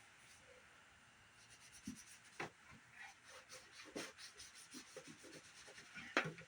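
Rubbing and scrubbing on the plastic casing of a CRT monitor as it is cleaned, with scattered light knocks and clicks of handling; the sharpest knock comes a little before the end.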